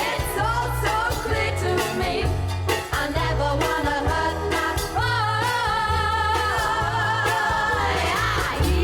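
1960s girl-group pop record: a female vocal trio singing in harmony over a steady bass line. The voices hold a long chord in the second half.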